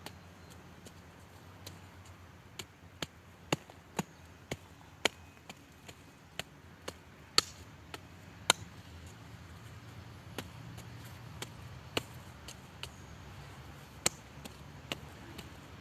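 A hand garden tool working in short, sharp chops or clicks at an uneven pace of about two a second, pausing briefly near the middle, as weeds are cut out of a garden bed.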